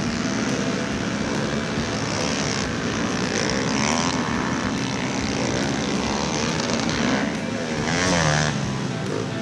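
Several small pit bike engines revving high, their pitches rising and falling as they race. The engine sound swells loudest near the end.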